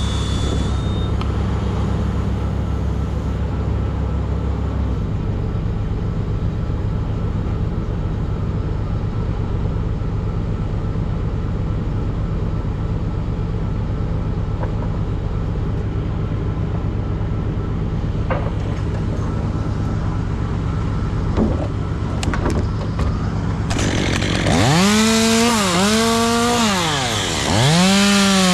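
An engine runs steadily. About 24 seconds in, a chainsaw starts and revs up and down several times.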